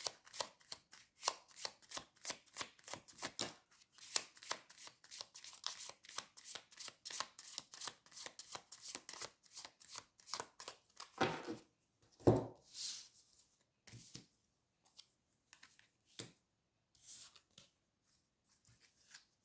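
Tarot cards being shuffled by hand: a fast, dense run of card clicks for about eleven seconds, then a few separate taps and one heavier thud, with near silence near the end.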